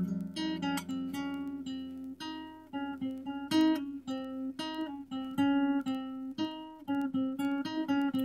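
Background music: acoustic guitar picking a run of single notes and chords, several a second.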